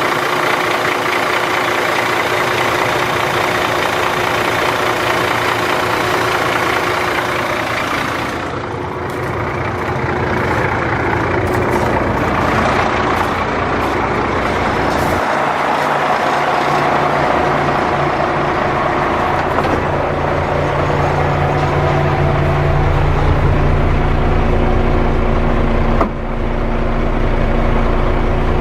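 1998 Ford Louisville tandem-axle dump truck's diesel engine running steadily; about fifteen seconds in its note deepens and grows stronger, with a brief click and dip about twenty-six seconds in.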